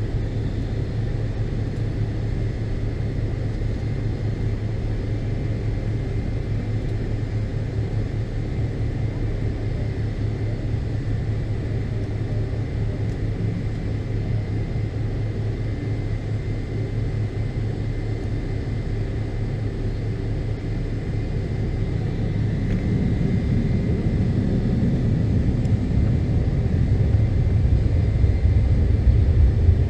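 Cabin noise inside a McDonnell Douglas MD-82 airliner: a steady low rumble from its rear-mounted jet engines, with a faint steady whine. About 21 seconds in, the rumble grows louder and deeper.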